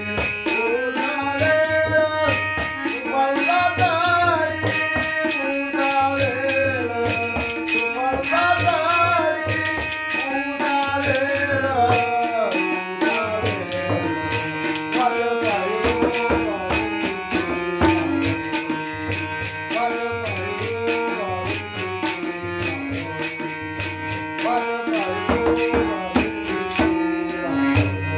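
Marathi devotional abhang singing: a male voice with small hand cymbals striking a quick, steady beat and a drum pulsing underneath.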